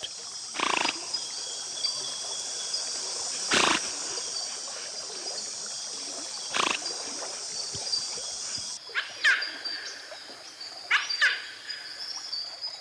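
Wild animal calls: three sharp cries a few seconds apart, then short downward-sweeping squeals near the end, over a steady high-pitched buzz that stops about nine seconds in.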